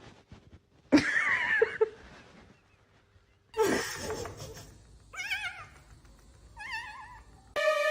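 A cat's trilling, wavering meows: a longer one about a second in, then two shorter ones later on. Music starts just at the end.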